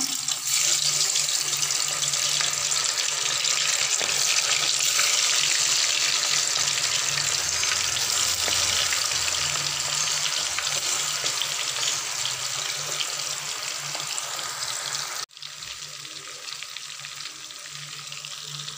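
Pieces of fish deep-frying in hot oil in a wok, a loud steady sizzle. About fifteen seconds in it drops abruptly to a quieter sizzle.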